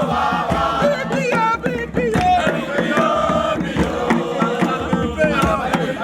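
A group of voices chanting a song together, with sharp percussive beats, a scouts' campfire song.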